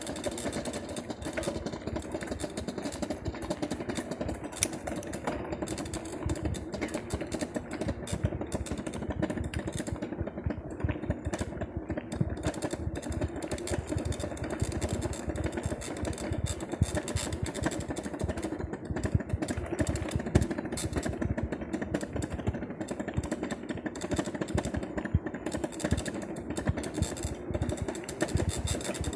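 Electric bicycle running with its suspect noise: a steady hum overlaid with rapid, irregular clicking.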